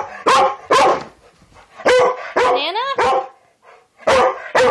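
Pet dog barking sharply over and over, about seven short barks in uneven bursts, in protest at a banana held out to her.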